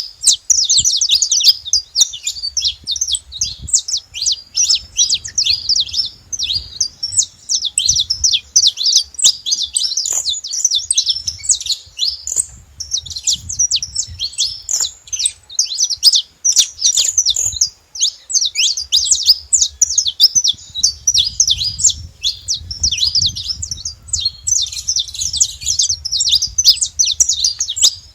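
Saffron finch singing loudly and without pause, a dense stream of rapid high chirps and trills broken only by two short gaps.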